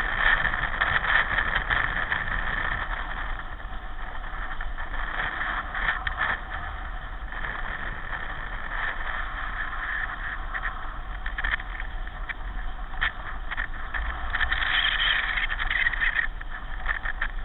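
Pedal car in motion: a steady rolling, mechanical running noise with frequent clattering rattles through it.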